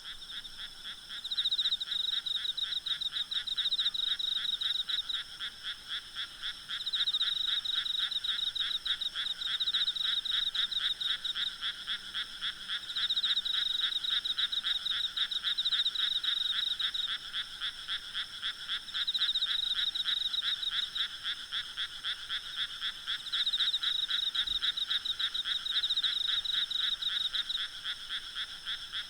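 A chorus of frogs croaking in rapid pulsed trills that come in bouts of a few seconds each, over a steady high-pitched drone of insects.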